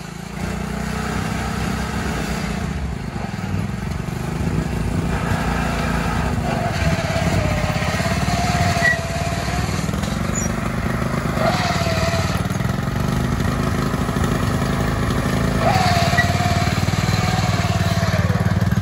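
Small engines of modified riding lawn mowers running while crawling over rocks. The engine note swells and dips a few times as the throttle is worked.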